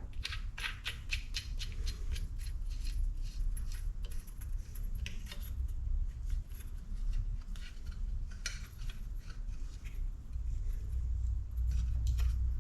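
Irregular light metallic clicks and ticks of small parts being handled as a washer and the water pump impeller are fitted onto the pump shaft of a Honda CR125 engine by hand.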